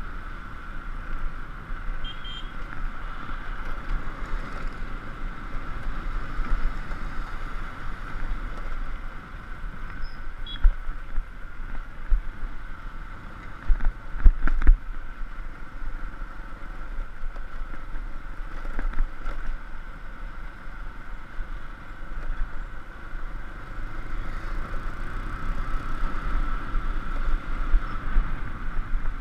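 Motorbike running steadily while riding along a road, with rumbling road noise. A few sharp knocks from a bump come about halfway through.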